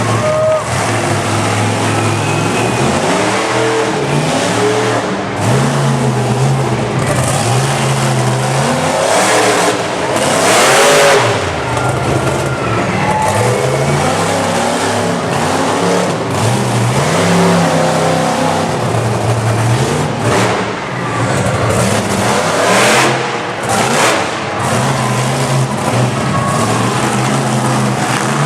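Monster truck engines revving up and down over and over, loud throughout, with two louder rushes of noise, one about a third of the way in and one near the end.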